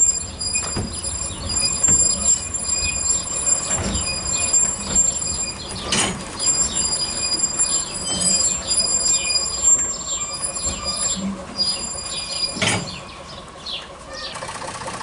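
Narrow-gauge passenger train rolling slowly along a station platform. Its wheels click rapidly over the track, with a few louder clunks and a thin, steady high-pitched squeal. Shortly before the end the sound drops and gives way to a steadier engine noise.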